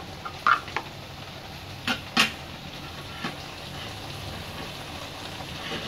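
Peanut sauce paste cooking in a hot wok with a low steady sizzle, broken by a few short sharp knocks against the pan in the first three seconds.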